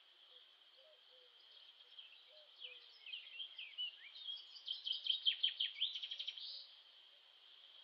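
A songbird singing a phrase of quick, varied chirps that builds into a rapid trill near the end, over a steady high-pitched background hiss.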